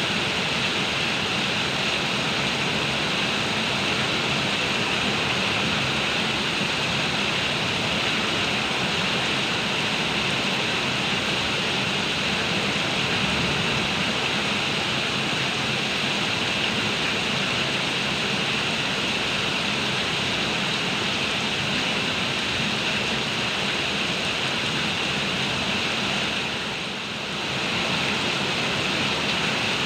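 Heavy rain pouring steadily as a dense, even hiss, with a brief dip in loudness near the end.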